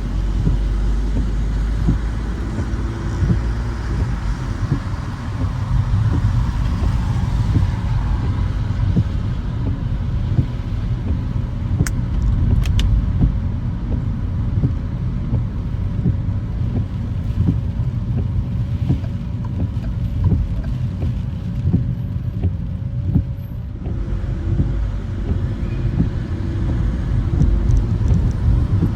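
A car driving on wet roads: a steady low rumble of engine and road noise with a hiss from tyres on wet pavement. A few sharp clicks come about twelve seconds in.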